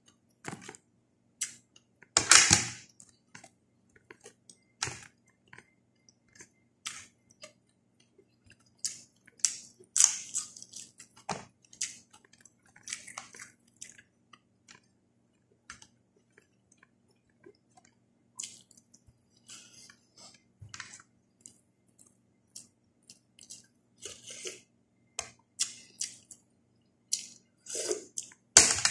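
A person eating close to the microphone: chewing and mouth sounds with scattered short clicks, the loudest bursts about two seconds in, around ten seconds and near the end.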